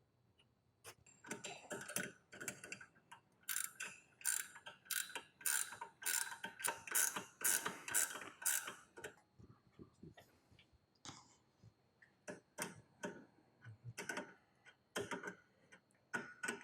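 Ratchet wrench with a 10 mm hex (H10) bit clicking through short back-and-forth strokes as the brake caliper mounting bolts are cinched down. There is a busy run of strokes for several seconds, then a few scattered strokes near the end.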